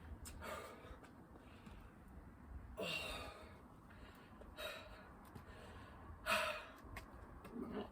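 A person breathing hard from exertion: about five loud, gasping breaths a second or two apart, the loudest a little after six seconds in.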